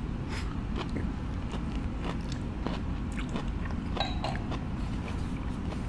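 Close-miked chewing of wagyu steak: scattered soft mouth clicks and smacks over a low steady background hum.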